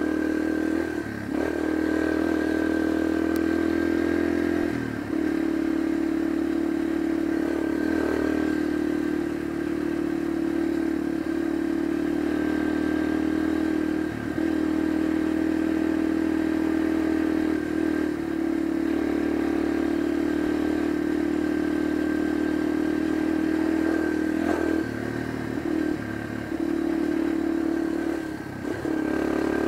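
Yamaha dirt bike engine running steadily as the bike is ridden along a dirt road. The engine note dips briefly several times, about every few seconds, and picks up again.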